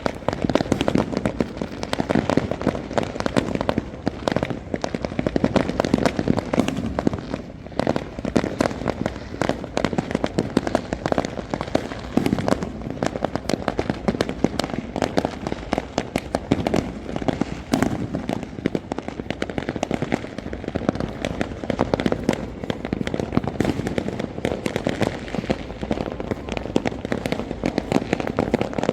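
Fireworks going off in a dense, unbroken barrage of overlapping bangs and pops.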